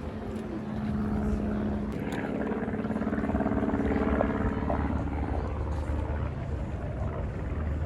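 An aircraft flying at an air show: a steady engine drone with a strong pitched hum that swells in the middle and eases off near the end.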